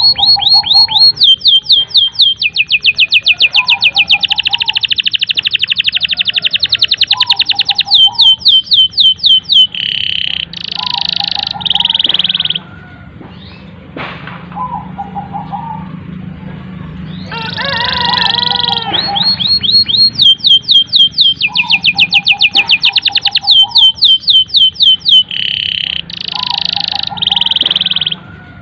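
Domestic canary singing a long song of fast, rolling trills of rapidly repeated high notes. It breaks off about halfway through, then starts again with the same trills.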